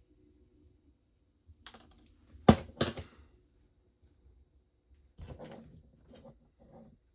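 A few sharp clacks of hard objects set down or knocked together, the loudest about two and a half seconds in, then about two seconds of softer rustling and clicking: tools and parts being handled on a soldering workbench.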